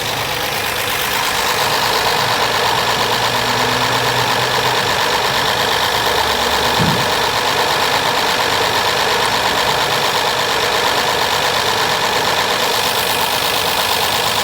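Honda Accord V6 idling steadily, with a slight rolling misfire, as if one cylinder is not contributing.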